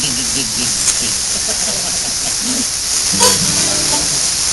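Steady hiss with faint murmuring voices underneath; about three seconds in, a few held notes start from an instrument during a sound check.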